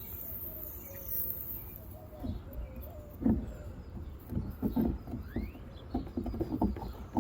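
A series of light knocks and scuffs starting about three seconds in, handling noise against a plastic kayak hull, with a bird calling faintly in the background.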